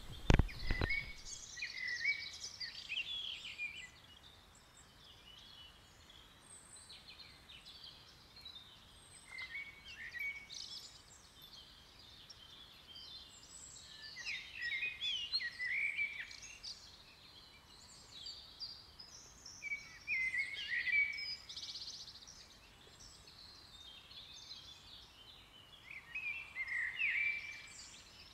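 Birds singing in short chirping phrases that come back every five or six seconds, over a faint outdoor hiss. A single sharp thump sounds right at the start.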